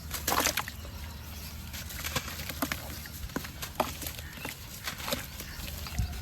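Pure white cement shapes crumbling, with a dense run of crunches about half a second in and then single sharp crackles every second or so.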